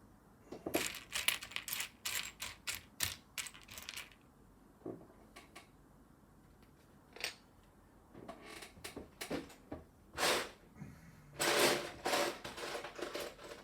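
Small plastic LEGO pieces clicking and clattering as they are handled and sifted through by hand. There is a quick run of sharp clicks, a few scattered clicks, then more clattering with a longer rattling stretch near the end.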